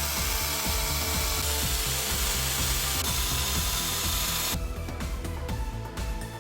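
A steady hissing tool noise for about four and a half seconds that cuts off suddenly, over background music.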